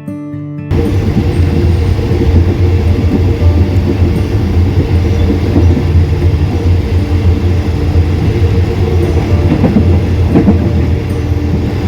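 Passenger train running on the rails: a loud steady rumble with rattling and a few knocks from the track. Acoustic guitar music cuts off abruptly just under a second in.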